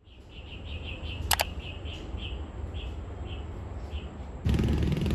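A bird chirping again and again, quickly at first and then more slowly, over a low rumble of wind on the microphone. A sharp click about a second in, and the noise grows louder near the end.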